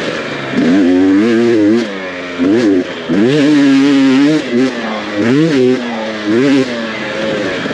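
Off-road dirt bike engine revving up and dropping back again and again as the throttle is opened and closed, climbing in pitch about half a dozen times.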